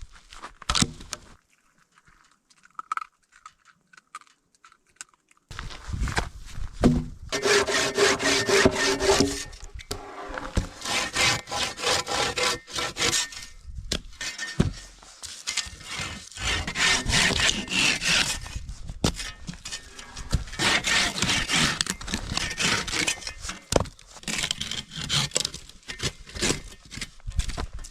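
A hand saw cutting through wood, in several bouts of quick back-and-forth strokes with short pauses, starting about five seconds in.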